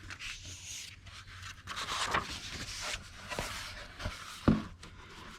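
Paper rustling and scraping as the pages of a hardcover picture book are handled and turned, ending with a soft knock or two.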